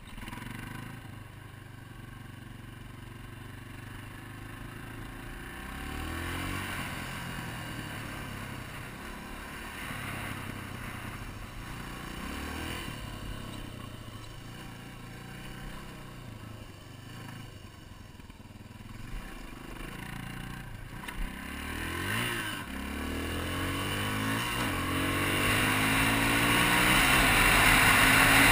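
Yamaha TT-R250's single-cylinder four-stroke engine revving up and easing off several times, its pitch sweeping upward with each burst of throttle. A rushing noise grows steadily louder over the last few seconds.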